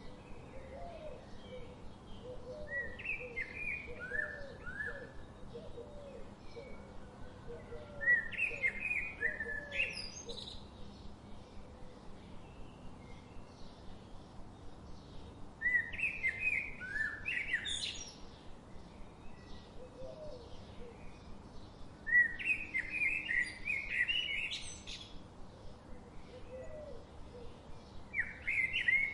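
Birds singing: a songbird repeats a short, quick phrase of sliding notes about every six to seven seconds. Softer, lower chirps come in runs between the phrases.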